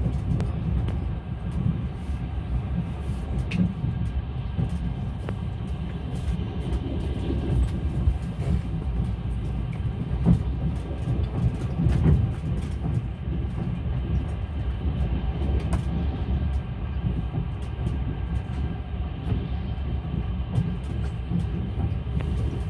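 Passenger train running along the track: a steady low rumble of wheels on rails, with occasional sharp clicks and knocks.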